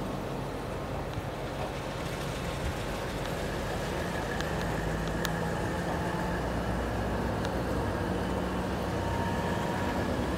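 Diesel-hauled passenger train pulling slowly out of the station, heard from an open coach door: a steady engine hum under the rumble of the rolling coaches, slowly growing louder as it gathers speed. A few sharp clicks come a few seconds in.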